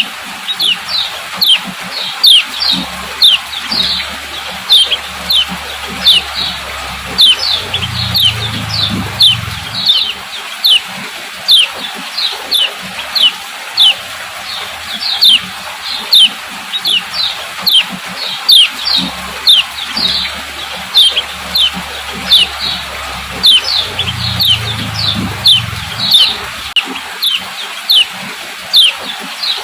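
A female kecial kuning giving its repeated 'ciak ciak' call: short, sharp, high notes that drop in pitch, repeated evenly at about two a second.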